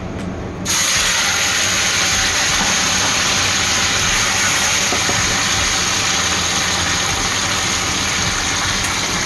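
Raw marinated chicken wings sizzling in hot oil in a frying pan. The loud sizzle starts suddenly under a second in, as the wings go into the oil, and then holds steady.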